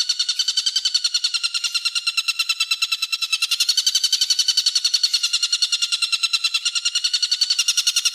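A songbird's harsh, rapid rattling call, pulsed very evenly about ten times a second and kept up steadily: the sharp rasping 'mbeset' type of call played to train captive songbirds.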